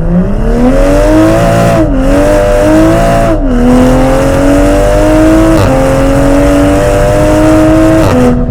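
Toyota GR Supra fitted with a Dinan exhaust and CTS catted downpipe, accelerating hard through the gears. The engine note climbs and then drops sharply at each of four upshifts.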